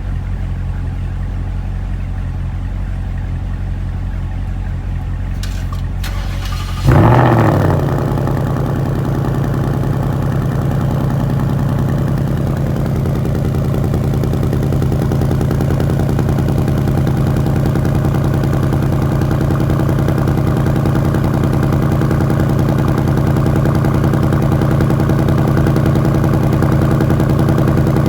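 Ford Mustang GT PP1's 5.0 V8 cold-starting about seven seconds in, with a brief rev flare, then settling into a steady fast cold idle. Before it catches, another car's engine is already idling.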